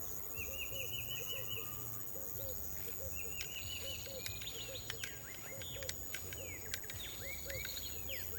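Birds calling outdoors: short high trills repeated, then many quick chirps from about four seconds in, over a low call that repeats about twice a second and a faint low hum.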